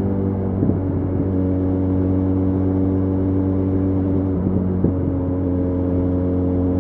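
Benelli Leoncino 500's parallel-twin engine running at steady revs while riding, its pitch shifting briefly about a second in and again about four and a half seconds in.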